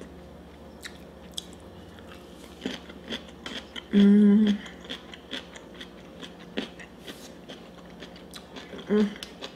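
Close-up chewing with many short wet mouth clicks. A loud hummed "mmm" about four seconds in, and a shorter one near the end.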